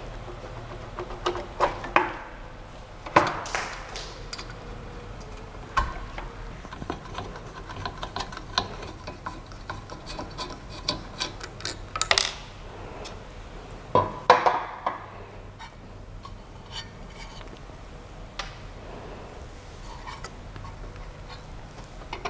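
Irregular clicks, knocks and brief rubbing scrapes of hands handling parts of a Creality CP01 3D printer while setting it up for CNC carving, over a steady low hum.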